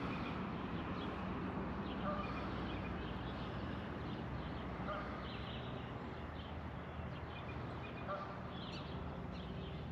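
Steady rush of white water below a dam, with a bird giving a short faint call three times, a few seconds apart.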